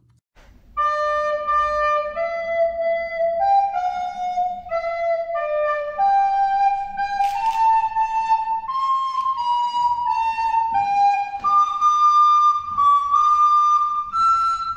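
A recorder played solo: a simple tune of held notes moving step by step, starting about a second in and climbing gradually higher.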